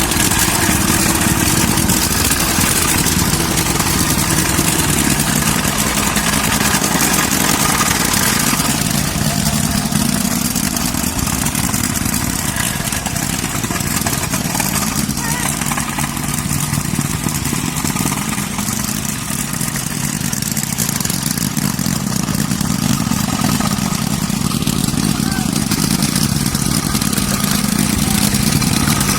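Soil compactor's small engine running steadily at working speed, the machine compacting ground.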